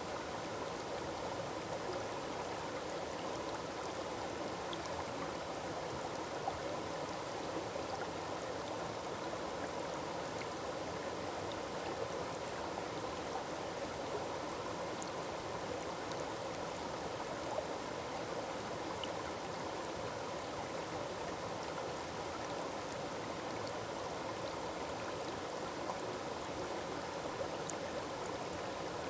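Small forest waterfall, its water falling and rushing in a steady, unbroken splash, with faint tiny droplet ticks now and then.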